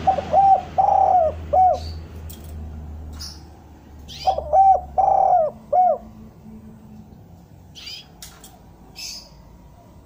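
Derkuku dove cooing: two phrases of about four rounded coo notes each, a few seconds apart. Short high chirps from another small bird fall in between.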